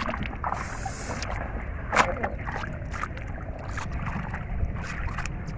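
Hands splashing and sloshing in shallow river water: a run of short, irregular splashes, the loudest about two seconds in.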